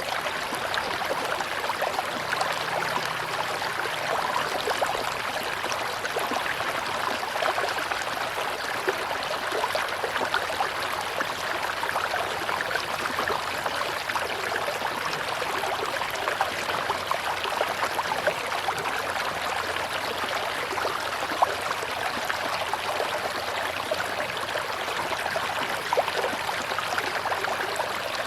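Tropical river water with a steady, gentle rush, full of tiny splashes and trickles.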